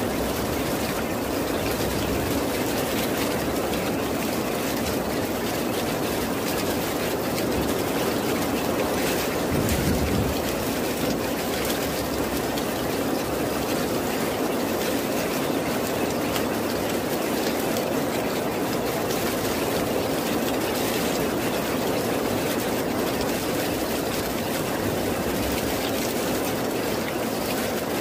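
Steady rain falling, an even wash of noise without breaks, swelling briefly about ten seconds in.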